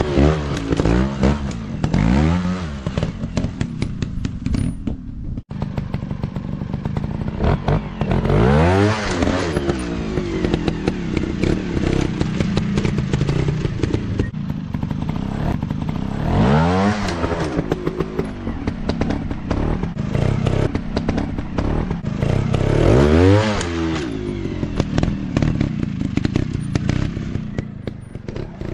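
Dirt bike engine being revved hard in repeated bursts, its pitch climbing and falling with each twist of the throttle, with several quick blips at the start and three big surges later, the engine running steadily between them.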